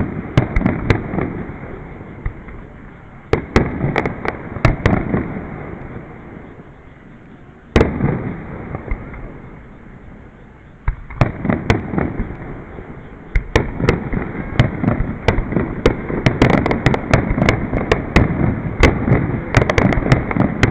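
Fireworks display: aerial shell bursts going off as sharp bangs every few seconds, each followed by a long rumbling echo. From about eleven seconds in they build into a rapid barrage of many bangs and crackles.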